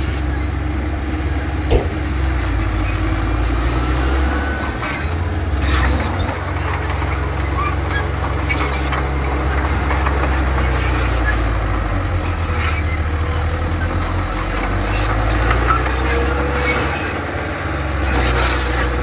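Komatsu D31 crawler bulldozer's diesel engine running steadily under work, with occasional knocks and short squeals from the machinery.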